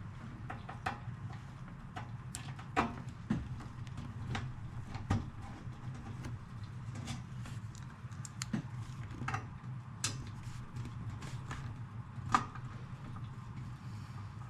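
Irregular light clicks and taps of hands and tools handling a metal stereo receiver case, over a low steady hum.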